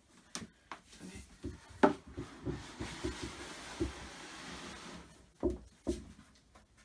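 Wooden flat-pack cupboard parts being handled and fitted: light knocks and a rubbing scrape, with a louder knock about two seconds in and two more knocks near the end.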